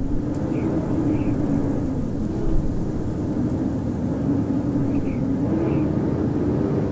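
Howling winter wind blowing steadily, a low moaning tone under the rushing noise that swells and dips a little. Faint short high chirps come twice in pairs, near the start and about five seconds in.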